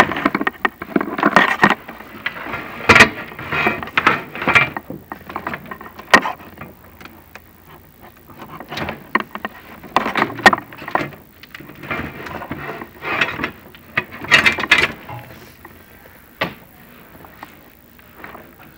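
Irregular rubbing, scraping and a few sharp knocks as a chimney inspection camera is handled and its lens wiped clean of cobwebs. The sounds come in uneven bursts and die down near the end.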